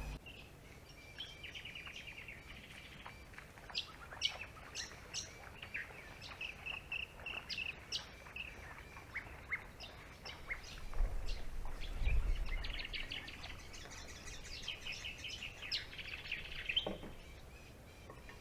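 Small birds chirping and twittering, with quick trills and short calls. There is a brief low rumble about twelve seconds in and a short falling tone near the end.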